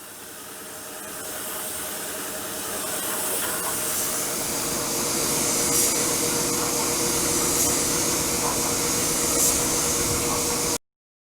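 Compressed-air paint spray gun hissing steadily, with a low steady hum of shop machinery underneath; it fades in and cuts off abruptly near the end.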